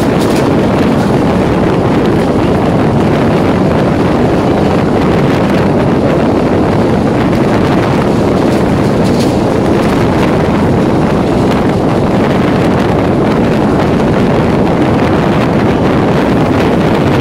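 Running noise of an EMU local train at speed, heard on board: a loud, steady rush of wheels on rail mixed with wind blowing over the microphone.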